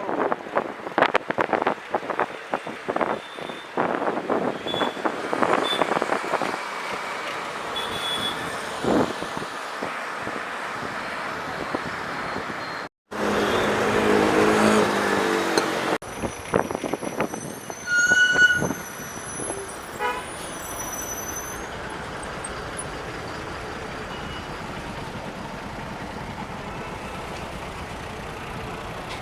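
City road traffic heard while riding a bicycle: road and wind noise with knocks and rattles, and vehicle horns tooting now and then, the clearest a short high horn a bit past the middle. The sound breaks off and changes suddenly a little before the middle.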